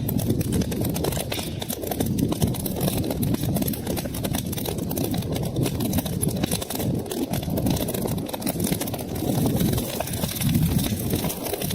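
Wood fire burning in a fireplace: many quick crackles and pops over a steady low rumble of flames.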